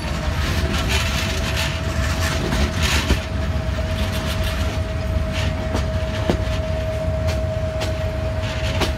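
Trains on the move: a steady low rumble of wheels on rails with scattered sharp clicks, and a thin steady whine held throughout.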